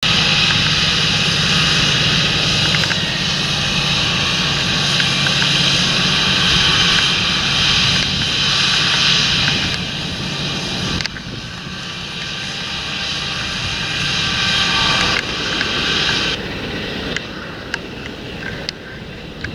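John Deere tractor's diesel engine working in the field under load, a steady drone with a strong hissing top. It drops in level about eleven seconds in, and the higher part fades out a few seconds later.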